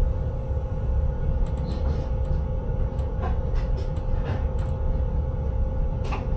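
Inside the driver's cab of a moving intercity train: a steady low rumble of the running train with a constant hum and scattered light clicks and ticks.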